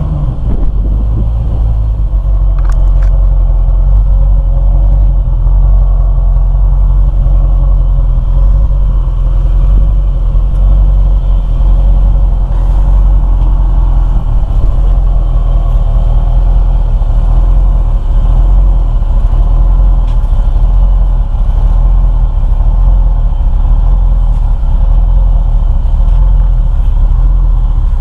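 1987 Corvette's 5.7-litre V8 running at a steady idle through the stock exhaust, just after a cold start in freezing weather.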